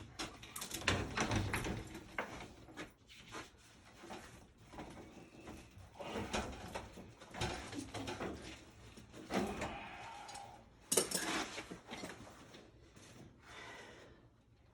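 Irregular bursts of scraping, rustling and knocking from work handling, coming and going in several separate spells, the loudest about a second in and again near 11 seconds.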